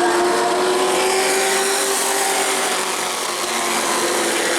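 Race truck engines from the field running together on the track, a steady mechanical drone of several pitches that sags slightly in pitch.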